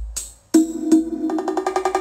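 Music played through a pair of Harman Kardon Onyx Studio 7 Bluetooth speakers. A deep drum hit fades to a brief gap, then about half a second in a new passage starts with a held low note and quick, evenly spaced percussive ticks.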